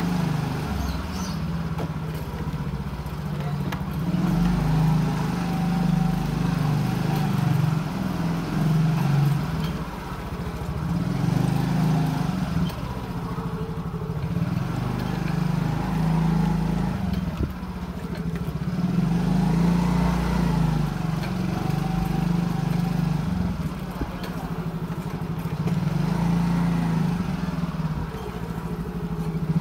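Motorcycle engine running while riding, its steady note swelling and easing every few seconds with the throttle.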